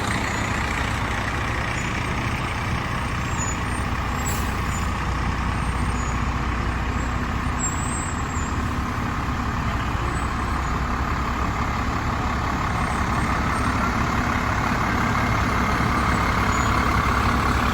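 Fire truck's diesel engine running at low speed, a steady rumble that grows louder near the end.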